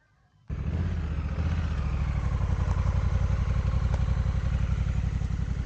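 Motorcycle engine running steadily, coming in suddenly about half a second in.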